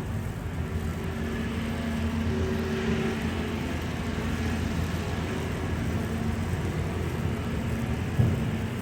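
Street traffic: a vehicle engine's steady low hum with road noise, and one short knock near the end.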